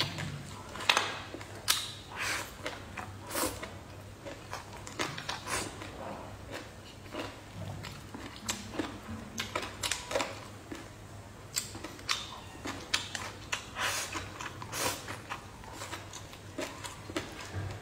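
Close-miked chewing of crunchy food: irregular sharp crunches and clicks, coming in quick clusters.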